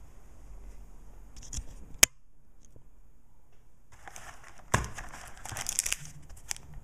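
Foil wrapper of a trading card pack crinkling and tearing as it is opened, with a sharp click about two seconds in and louder crinkling and rustling in the second half.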